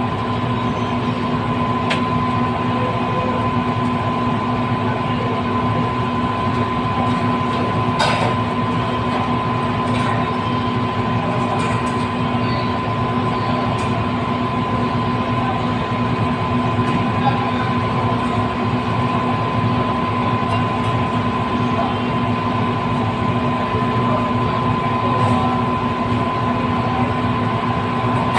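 Steady mechanical rumble with a constant hum and a few faint clicks.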